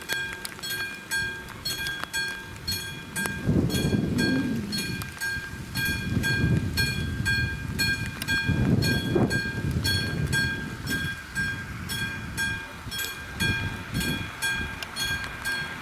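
The AŽD 71 level crossing's classic warning bell ringing steadily, about three strikes a second, while a train passes with rumbling wheel-on-rail noise that swells about four, six and nine seconds in.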